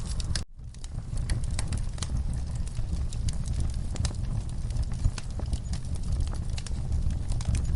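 Wood fire burning, with irregular crackles and pops of the logs over a low, steady rumble of the flames. The sound cuts out for a split second about half a second in, then carries on.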